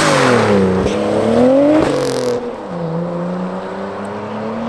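Car engine being revved hard in two rising-and-falling surges. About two and a half seconds in, the loud noise drops away to a quieter, steadier engine note that slowly climbs in pitch.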